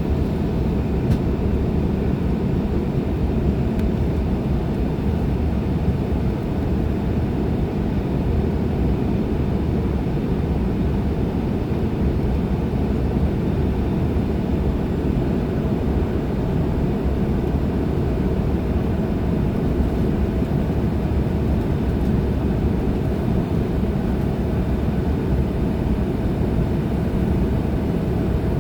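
Steady low rumble of a CRJ-900 regional jet's GE CF34 turbofan engines, holding an even level with a faint steady tone.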